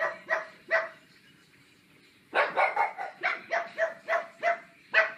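Pugs barking in short, sharp barks: three in quick succession, then a pause of about a second and a half, then a fast run of about ten more.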